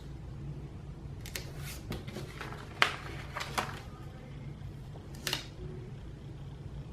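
Stickers and paper sheets being handled: a handful of short, sharp peels, rustles and taps, the loudest about three seconds in, over a low steady hum.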